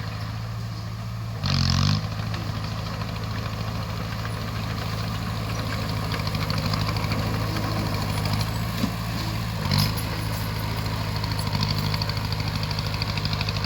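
Bulldozer's diesel engine running steadily under work, with short surges in loudness about a second and a half in and again near ten seconds.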